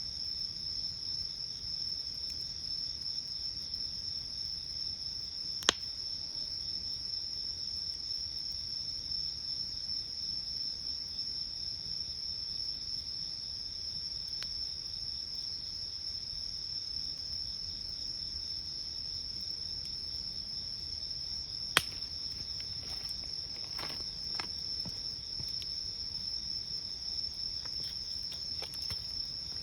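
Night insects chirring in a steady, high, pulsing trill, over which the campfire's burning wood pops sharply twice, about six seconds in and again about twenty-two seconds in, with a few fainter crackles near the end.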